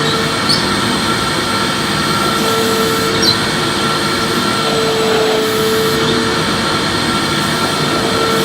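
Electric vacuum cleaner running steadily while vacuuming, a constant rushing noise with a high whine. A lower hum fades in and out several times, with a couple of faint ticks.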